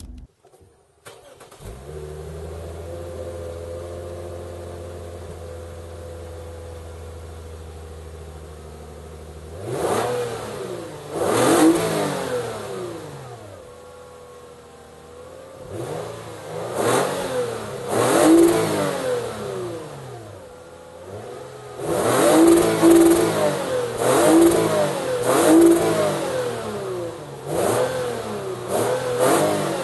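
Lexus IS250's 2.5-litre V6 engine and exhaust starting and settling into a steady idle. After about eight seconds it is revved in a series of about ten sharp blips, each rising and falling back to idle, with several in quick succession near the end.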